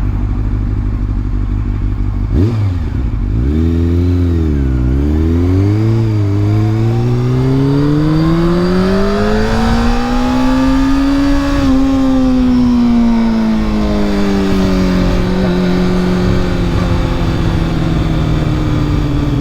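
Honda CBR sport motorcycle's engine running at idle, then a quick throttle blip. The engine pulls away with its pitch rising steadily for several seconds, drops off sharply about two-thirds of the way through, and winds down slowly as the bike slows.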